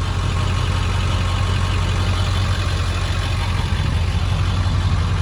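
Ford 7.3-litre Power Stroke turbo-diesel V8 idling steadily with a low, even drone.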